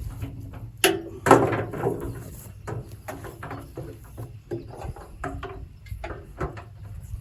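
Irregular knocks and clatters, as of wood and branches being handled around a jammed garden shredder, with the loudest crashes about a second in.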